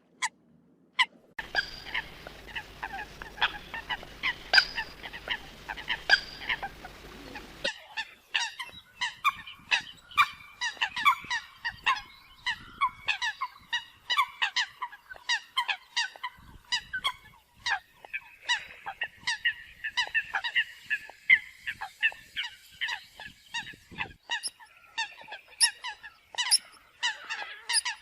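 Eurasian coots calling: many short, sharp honking notes in rapid succession, overlapping from several birds. A background hiss with a low hum sits under the calls for the first several seconds.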